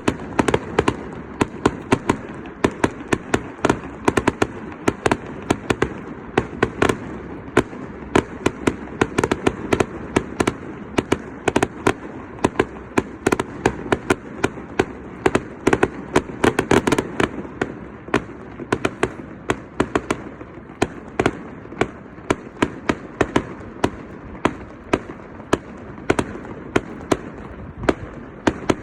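Fireworks display: a steady barrage of sharp bangs, several a second, over a continuous low rumble.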